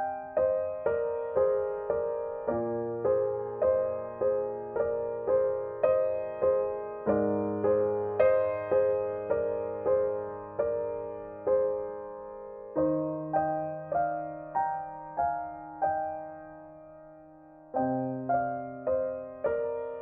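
Background music: a slow solo piano piece, single notes struck about every half second over held low notes. It fades away near the end and then starts again.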